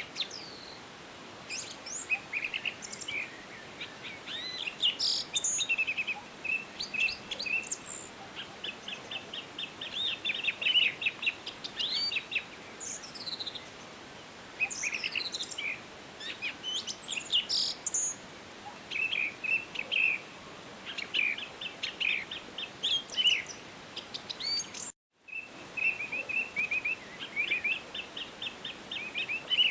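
Several songbirds singing and chirping, with overlapping calls and rapid trills over a faint steady hiss. The sound drops out completely for a moment near the end.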